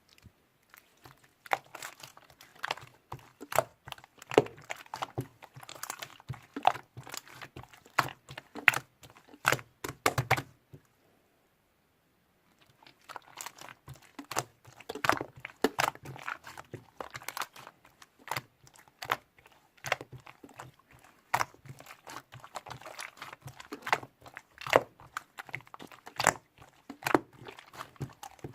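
Rapid, irregular crunching and crackling clicks, with a brief total silence a little before halfway.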